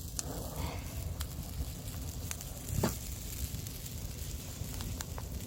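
Wood campfire burning hot: a low steady rumble with a handful of sharp crackling pops, the loudest about halfway through.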